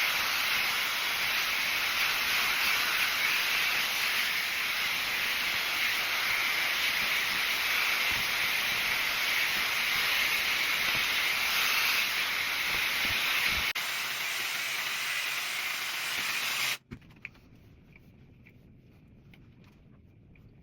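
Hot air brush (hair-drying brush) blowing, a steady rush of air that eases a little about 14 seconds in and then cuts off suddenly about 17 seconds in, when it is switched off.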